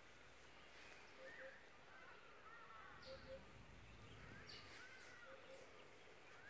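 Faint birdsong over quiet outdoor ambience: scattered short chirping phrases and a soft two-note call repeating every couple of seconds, with a brief low rumble around four seconds in.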